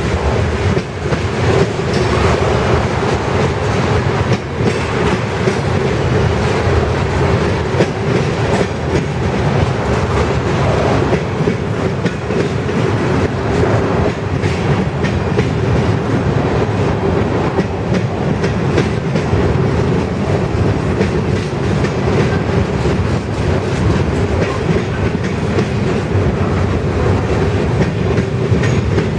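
Freight train cars rolling past with a steady rumble, their steel wheels clacking over rail joints in frequent clicks.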